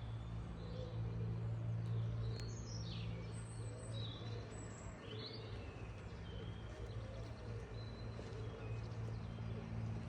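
Small birds chirping and calling, with a couple of quick falling whistles a few seconds in, over a louder steady low mechanical hum.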